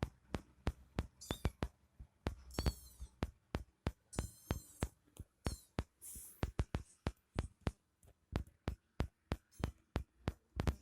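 Kitten giving several very high-pitched squeaky mews in the first half, over a steady run of sharp clicks at about three to four a second.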